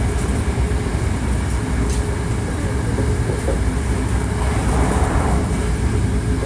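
Hankyu 1300 series electric train running along the line: a steady low rumble of wheels and car body with a faint steady hum above it and a few light ticks.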